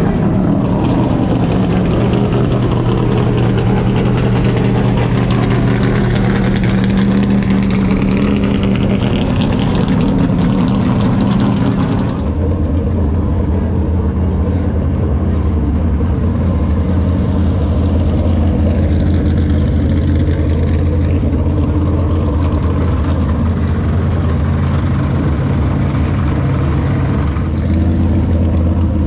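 American V8 stock-car engines running steadily at low revs. About twelve seconds in, the sound cuts to another car running at a lower, deeper note.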